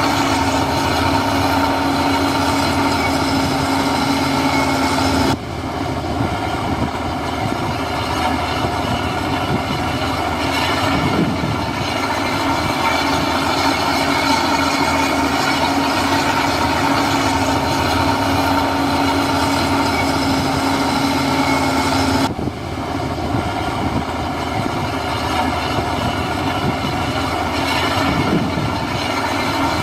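Heavy diesel engine of earthmoving machinery running steadily, with a constant drone and steady whining tones. The sound breaks off and changes abruptly about five seconds in and again about 22 seconds in.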